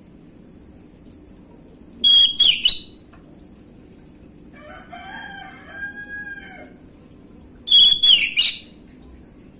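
Orange-headed thrush singing two short, loud, high-pitched whistled phrases about five seconds apart. Between them a rooster crows faintly in the background.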